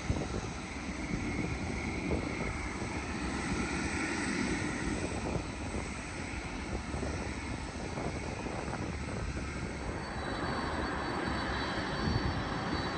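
Jet airliner engines on a landing approach, a steady rushing noise that swells to its peak about four seconds in; a faint high whine joins about ten seconds in.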